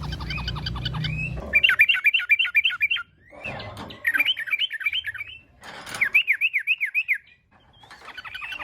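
Yellow-vented bulbul (trucukan) calling in fast, excited runs of sharp, downward-slurred chattering notes, the full-voiced fighting song used as a lure. Three runs of about a second and a half each, with a low hum under the opening second.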